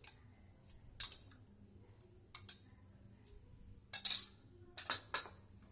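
A kitchen utensil clinking against a bowl while beating cake batter: several sharp, irregular clinks, the loudest cluster about four to five seconds in.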